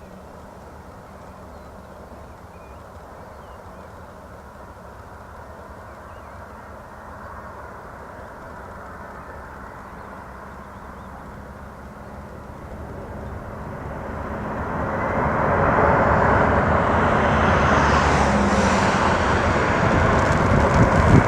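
Boeing jet airliner's engines, a faint distant rumble that swells past the middle into a loud steady noise as the plane comes close and passes.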